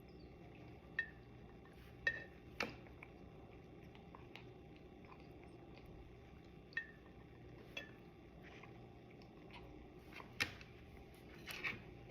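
A cockatoo drinking water, its beak clicking and tapping against the container, with soft wet lapping. The clicks come irregularly, about eight in all, a few with a short high squeak.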